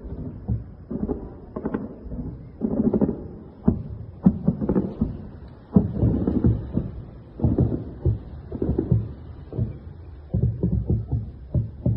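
Anti-aircraft gun firing repeated bursts of shots, heard as dull, thudding reports.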